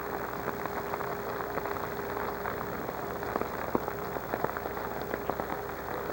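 Rain falling, with many close drops ticking sharply, over a steady hum.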